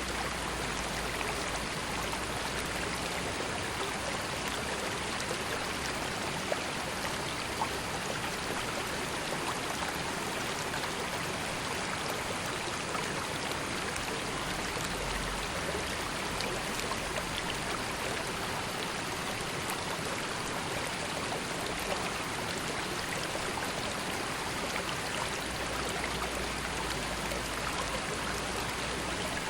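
River water flowing steadily over rocks, a continuous burbling rush with small splashes and droplets.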